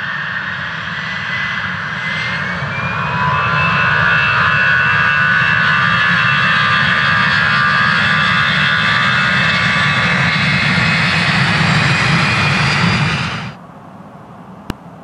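Airbus A320 jet engines spooling up to takeoff thrust: a whine rises in pitch over the first few seconds, then the engines run loud and steady over a deep rumble. The sound cuts off abruptly near the end, leaving a faint hiss and a single click.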